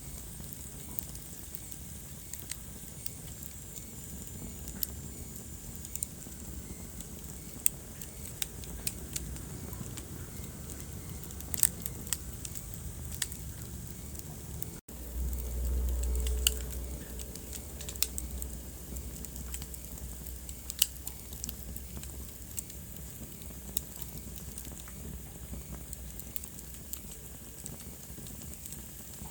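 Wood fire crackling in a fireplace: irregular sharp pops and snaps over a low steady rumble. About halfway the sound breaks off for an instant, then the low rumble swells for a second or two before settling.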